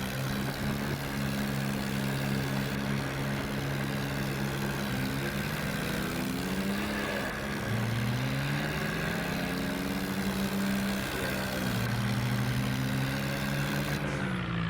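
Swaraj 744 tractor's diesel engine running, its pitch dropping and rising again a few times as the revs change.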